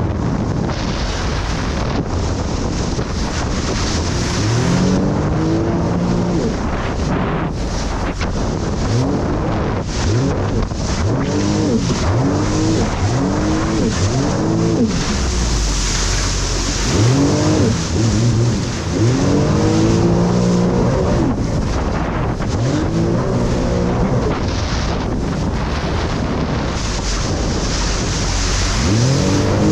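Jet ski engine revving up and easing off again and again, each throttle-up a steep rising whine, over constant wind and rushing noise on the microphone.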